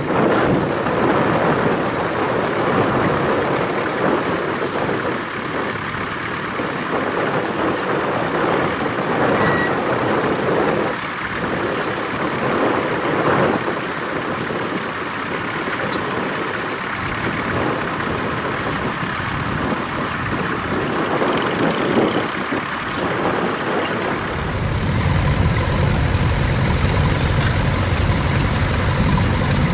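Tractor engine running at a ploughing match. About 24 seconds in, a deeper, louder engine sound comes in as a tractor draws close.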